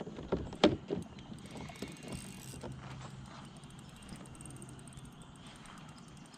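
A few sharp knocks and clicks of fishing tackle against a kayak in the first second, the loudest about two-thirds of a second in, then a faint mechanical rattle while a hooked bream is played in.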